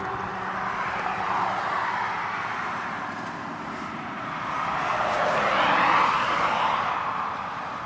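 Cars passing on the road: one fades away at the start, and another comes up, is loudest about six seconds in, and fades as it goes by.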